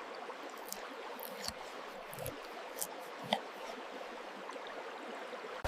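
Steady hiss of running water, with a few faint clicks scattered through.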